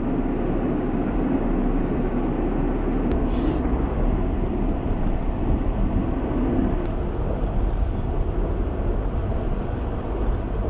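Vehicle driving off-road: a steady rumble of engine and rough-track noise, heavy in the low end, with two brief sharp knocks about three and seven seconds in.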